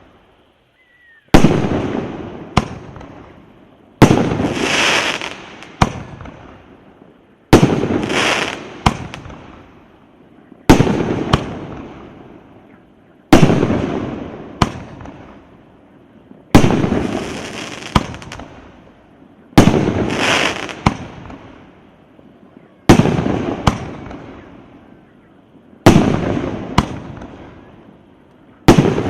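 Consumer firework battery (the C9008 'Gromovershets', a 2 × 19-shot cake) firing shot after shot, about one every three seconds. Each shot is a sharp loud bang followed by a fading crackling hiss and a smaller second crack about a second later.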